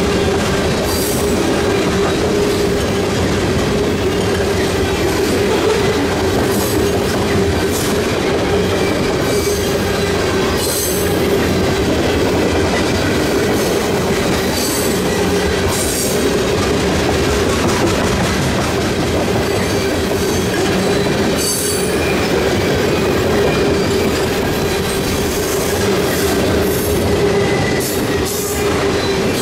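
Freight train tank cars rolling past at a grade crossing: a steady rumble of steel wheels on rail, with irregular sharp clacks of the wheels over the crossing and joints. Over it runs a steady ringing tone, the crossing's Western Cullen Hayes mechanical bell ringing while the gate is down.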